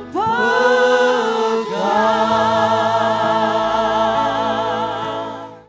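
Worship singers and congregation holding the final sung notes of a song, with vibrato, over sustained keyboard chords. The sound fades and then cuts off suddenly near the end.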